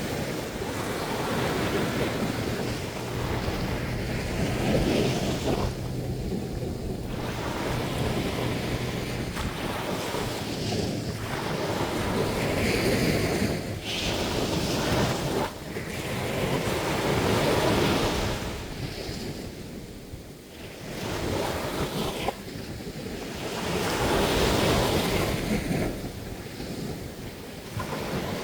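Sea waves breaking and washing up on a beach, the surf swelling and falling away every few seconds.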